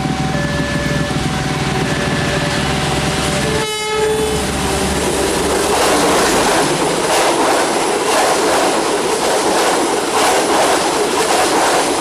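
A level-crossing warning signal chimes in alternating steady tones over the low rumble of an approaching diesel locomotive. About four seconds in the train horn sounds briefly. The train then passes close by with loud rolling wheel noise and regular clickety-clack over the rail joints.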